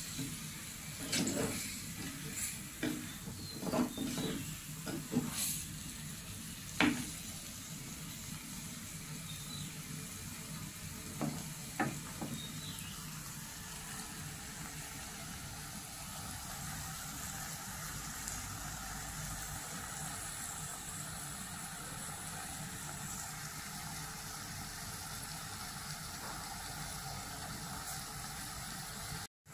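Eel curry pieces cooking in a pot on a gas burner: a steady sizzle, with stirring clatter in the first several seconds and a couple of knocks a little before halfway.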